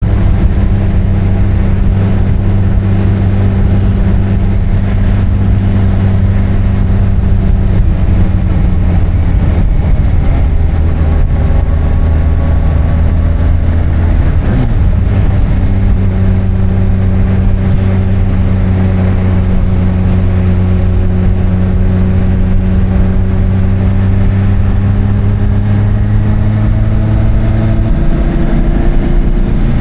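Kawasaki ZZR1400's inline-four engine running under way at steady revs. About halfway through there is a brief break in the note, and then the pitch creeps slowly upward.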